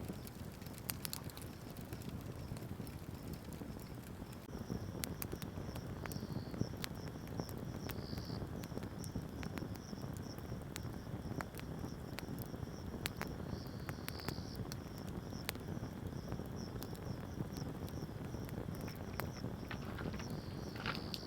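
Wood campfire burning with a steady low rush and scattered sharp crackles and pops, with a louder cluster of pops near the end. A high, even chirping pulse repeats about three times a second in the background.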